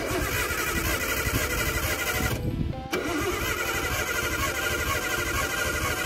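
Nissan Skyline R32 GTS-T's RB20DET straight-six cranking quickly on the starter from a fresh battery but not firing: with no spark and no injector pulse, it turns over without catching, and the new crank angle sensor has not cured it.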